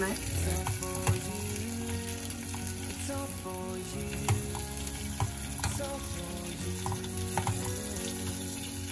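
Tomato slices frying in butter in a pan, a steady sizzle, with a few light clicks of a fork against the pan as the slices are turned.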